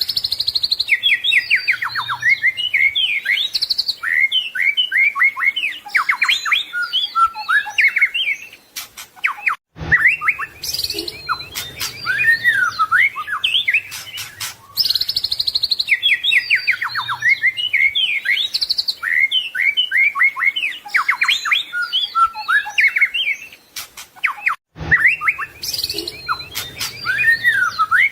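White-rumped shama singing a fast, varied song of whistles, trills and harsh chattering notes, the kind of full song packed with mimicked phrases that is used to train cage birds. The song breaks off briefly twice, and the same run of phrases repeats about every fifteen seconds.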